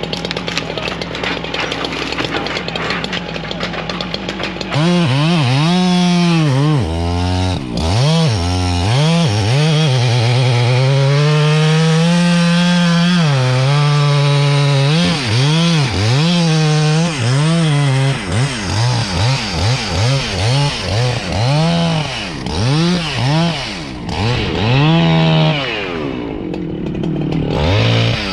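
Gas chainsaw running: idling at first, then from about five seconds in revved hard again and again in quick throttle blips, held at full speed for a few seconds as it cuts into wood, and blipped again toward the end.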